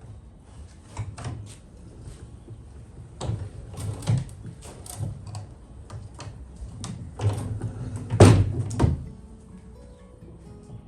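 British Anzani outboard motor turned over by hand with its spark plug out, to see whether water is expelled from the cylinder: a run of irregular mechanical knocks and clatters, loudest about eight seconds in, with music underneath.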